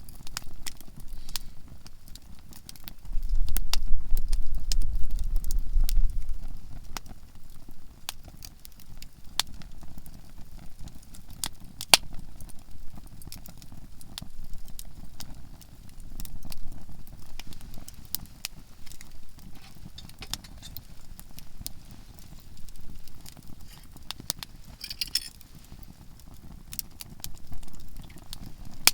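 Softwood campfire crackling, with frequent sharp, irregular pops from the burning conifer logs. A low rumble comes in for a few seconds near the start.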